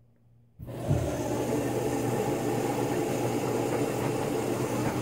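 Washing machine running: a steady motor hum with water and drum noise, which cuts in abruptly about half a second in.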